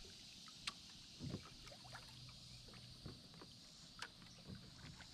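Quiet kayak sounds: a few light knocks and small water splashes from paddle and hull, over a faint steady hiss.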